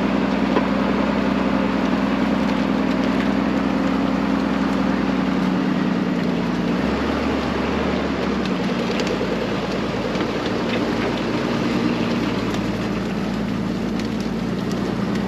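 Snowcat engine running steadily, a continuous drone that dips slightly in pitch about six seconds in.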